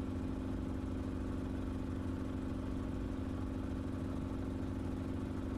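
Enstrom helicopter in flight, its engine and rotor making a steady, even drone with no change in pitch.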